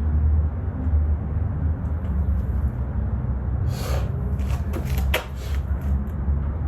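Harley-Davidson V-twin motorcycle engine running steadily with a low pulsing sound, with a few sharp clicks about four to five seconds in.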